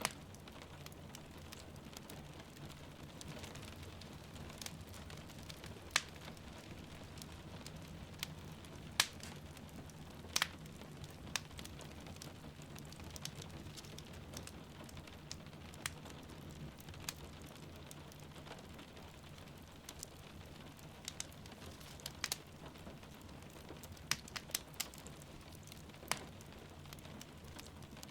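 Wood fire crackling, with sharp irregular pops, over the steady hiss of falling rain.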